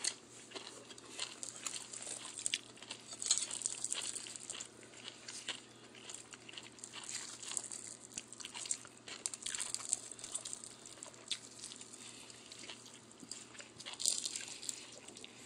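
A person chewing and biting food close to the microphone: irregular small crunching clicks and wet mouth sounds.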